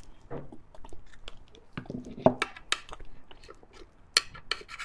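Close-miked eating of fatty beef bone marrow: wet chewing and mouth smacks with sharp, irregular clicks, the loudest about two seconds and four seconds in.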